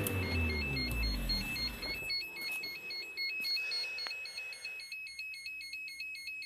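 A hot engine switching off, its pitch falling as it runs down over about two seconds. A warbling electronic beep, stepping rapidly between two high pitches, sounds throughout like an alarm or ringtone.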